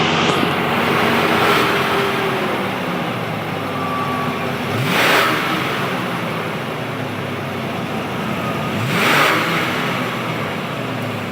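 1991 Ford Thunderbird 5.0 HO V8 running through its stock exhaust of three catalytic converters, a resonator and two mufflers. It idles steadily and is blipped up in revs twice, about five and nine seconds in.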